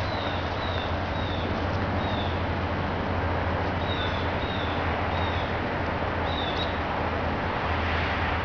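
Steady outdoor background hiss with a low hum, over which a small bird gives short, falling chirps about eight times, most of them in the first half and one last chirp a little past the middle.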